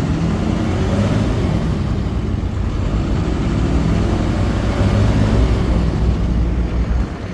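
6.7-litre Cummins turbo diesel engine of a Ford F-750 truck running, its pitch rising and falling a little. It runs evenly with no misfiring.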